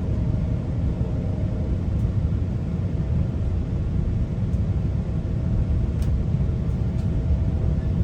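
Steady low rumble of a GO Transit passenger coach rolling along the track, heard from inside the car, with a faint steady hum above it and a few light clicks.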